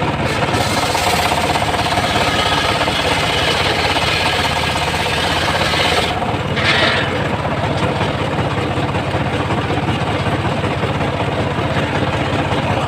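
Engine of a homemade circular sawmill rig running steadily, with a brief hiss about six and a half seconds in.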